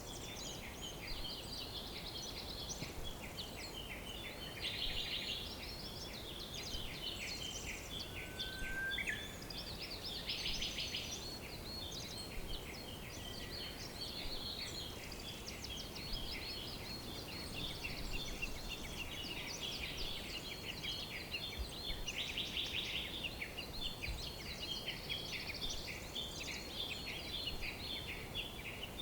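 A dense chorus of many birds chirping and singing at once: overlapping short, high-pitched chirps and fast trills that never pause, over a faint steady background hiss.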